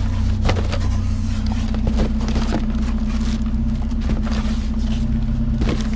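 Steady low mechanical hum, like an idling engine, with a few scattered knocks and rattles as scrap is handled.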